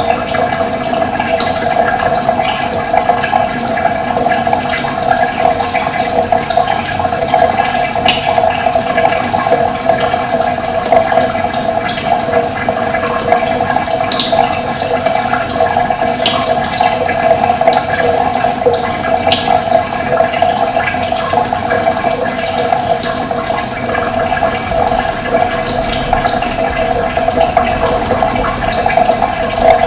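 Running water, a steady rushing flow with no break, with birds giving scattered brief high chirps over it.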